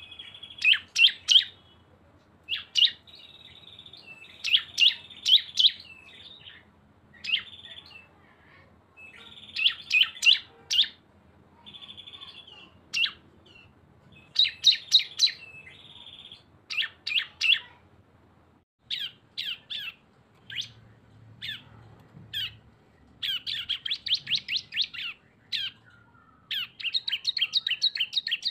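Two cisem (ciblek-type prinias) singing in the rapid 'bren' style. Clusters of sharp, high chirps alternate with short buzzy trills in quick succession, and the song turns into a fast, rattling trill near the end.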